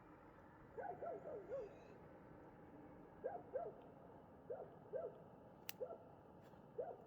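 An animal calling in short hoot-like notes, each rising then falling in pitch. The notes come in a run of four, then in pairs, then singly, over a faint steady background.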